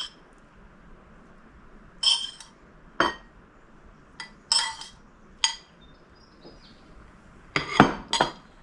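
Utensils clinking against bowls and dishes while food is served: about eight sharp, separate clinks with a short bright ring, spread irregularly, with a quick cluster near the end.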